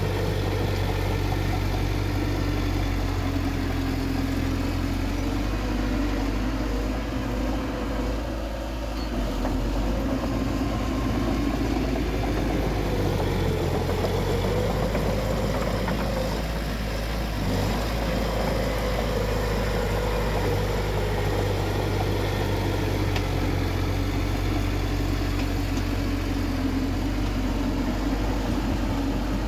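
Bulldozer's diesel engine running steadily, its pitch drifting up and down a little as it works.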